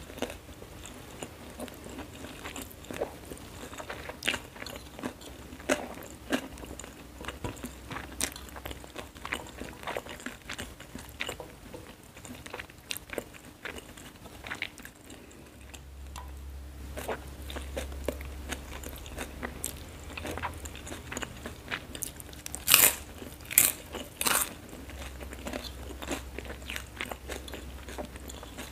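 Close-miked chewing and crunching of fried noodles (mie goreng), with many small clicks throughout and a few much louder, crisp crunches about three-quarters of the way through.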